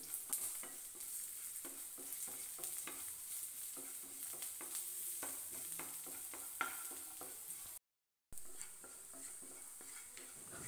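Garlic cloves, ginger and tamarind frying in coconut oil in a non-stick pan: a faint sizzle with a wooden spatula scraping and tapping the pan many times as the mixture is stirred. The sound drops out completely for about half a second, about eight seconds in.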